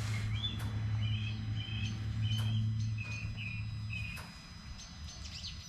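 A small bird chirping: a quick run of short, high tweets. Under it runs a low, steady hum that stops about four seconds in.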